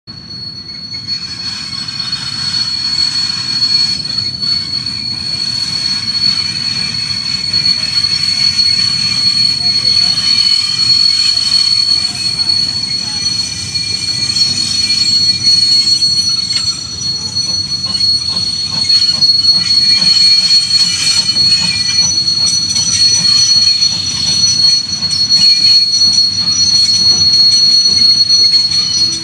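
Steam-hauled train approaching along the line, its wheels giving a steady high squeal on the rails over a low rumble that grows steadily louder. Scattered clicks from the wheels come in during the second half as it nears.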